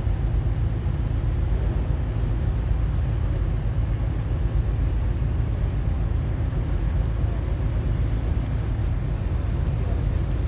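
Steady low rumble of ship and tugboat engines, unchanging throughout.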